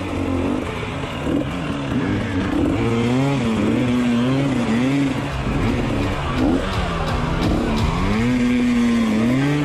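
Dirt bike engine sound revving up and down over and over, its pitch swooping rise and fall every second or so, like a motocross bike working through a trail.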